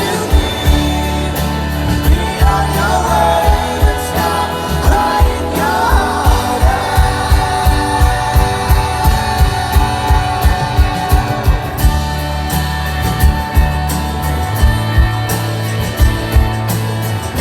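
Live rock band playing over a steady drum beat of about two hits a second, with a voice singing the melody in the first half.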